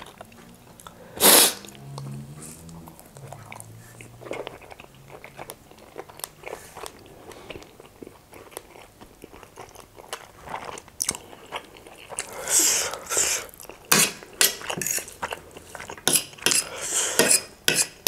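Close-miked chewing of a mouthful of chicken keema noodles and momo, with wet mouth clicks and smacks and one sharp click about a second in. Towards the end, fork and spoon clink and scrape on the plate.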